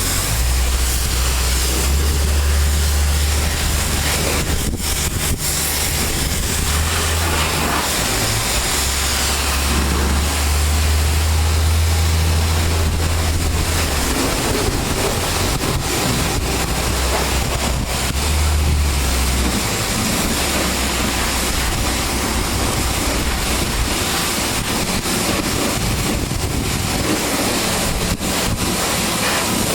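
Pressure washer spraying steadily with a loud rushing hiss. A strong low hum comes and goes several times through the first two-thirds, then fades.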